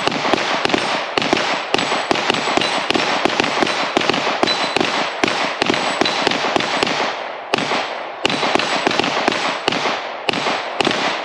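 Rapid semi-automatic pistol fire from two shooters racing each other at steel plates: dozens of sharp shots in quick strings, with a brief lull about seven seconds in.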